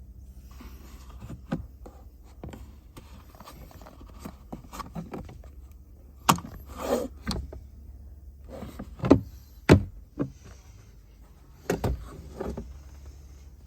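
Plastic clicks and knocks from handling a car's glovebox and cabin-filter housing, several sharp ones bunched in the second half, with a brief rustling scrape among them, over a low steady hum.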